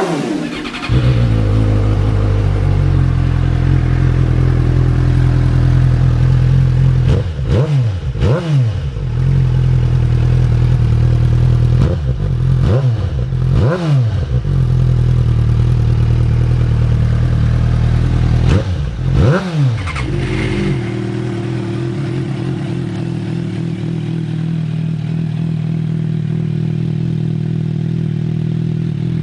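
Suzuki GSR 600 inline-four motorcycle engine idling loudly through its exhaust, revved in three pairs of quick throttle blips that rise and fall back to idle. In the last third it settles into a steady idle with no revving.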